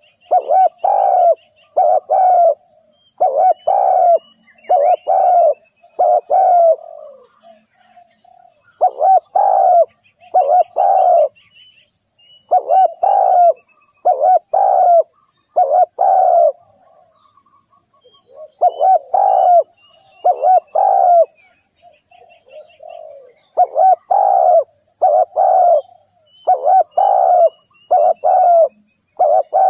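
Spotted dove cooing in repeated phrases of two to four low coos, each phrase followed by a short pause. Faint high chirps from small birds sound in the background.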